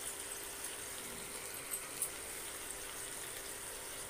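Potato wedges frying in hot oil with a little water just added, a steady sizzle and bubbling with a few faint pops.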